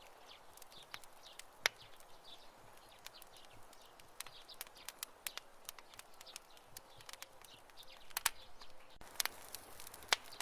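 Campfire burning with irregular sharp crackles and pops over a soft hiss, a few pops louder than the rest, with faint high chirping in the background.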